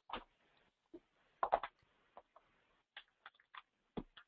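Computer mouse and keyboard clicks: about a dozen short, irregular clicks and taps, some in quick runs.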